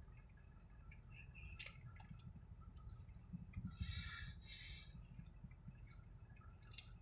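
Low steady rumble of a car's idling engine heard inside the cabin, with two short hisses one after the other a little past the middle and a few faint clicks.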